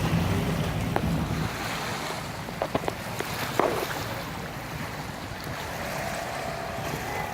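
Sea water sloshing, with wind on the microphone. A low steady hum drops away about a second and a half in, and a few short knocks come around the middle.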